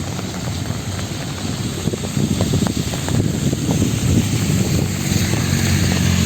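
Street traffic: a motor vehicle's engine running close by, getting louder from about two seconds in, over a steady hiss.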